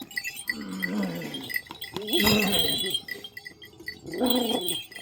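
Flock animals bleating: three calls, the middle one the longest and loudest, over a faint steady train of high pips.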